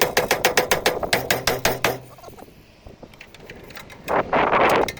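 Rapid hammering on car body sheet metal, about eight blows a second over a low steady hum, stopping about two seconds in. Near the end comes a short, loud rushing noise.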